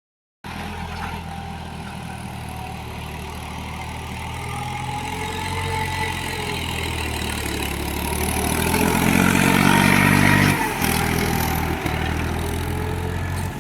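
Mahindra 295 DI Turbo tractor's diesel engine running under load, pulling a 9-tyne cultivator. It grows steadily louder and peaks about ten seconds in, then eases off sharply.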